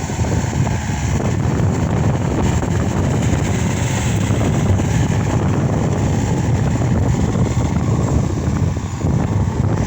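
Case SR200 skid steer loader's diesel engine running steadily.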